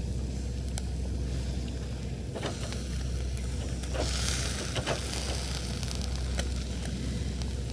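Wood campfire crackling with scattered sharp pops, over a steady low rumble, with a brief hiss about four seconds in.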